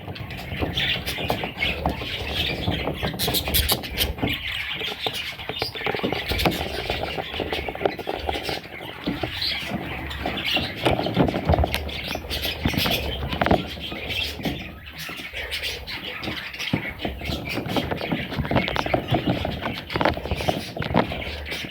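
Budgerigars calling continuously, a dense, overlapping stream of short high-pitched calls.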